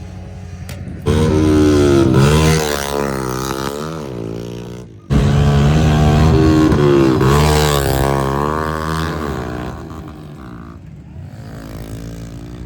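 110 pit bike engine revving up and down under the rider's throttle, in two loud passes. The second starts abruptly about five seconds in and fades away near the end.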